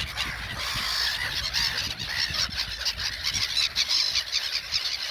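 A flock of gulls calling, many birds at once, their calls overlapping without a break.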